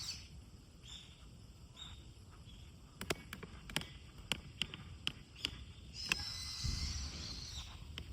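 Wood campfire crackling: a run of sharp pops about three to five and a half seconds in, then a short stretch of hiss with a low rumble near the end.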